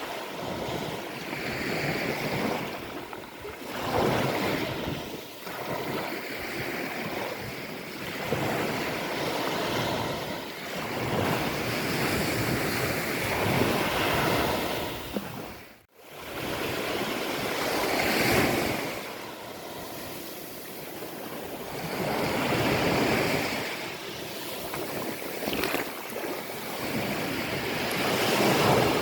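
Ocean surf breaking on a beach, the wash swelling and fading every few seconds. The sound drops out for an instant about halfway through.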